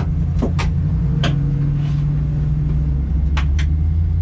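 Twin-turbo Mustang engine running at low, steady speed, a steady low rumble whose tone shifts slightly about three seconds in, with a few sharp clicks over it.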